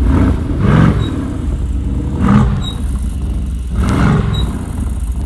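Mercedes-AMG GT R's 4.0-litre twin-turbo V8 idling steadily through its performance exhaust, blipped three times in short revs about a second and a half apart.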